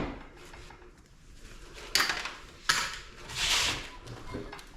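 Metal parts of a scrap air-conditioning unit being handled and pried apart: two sharp clinks and a longer scrape.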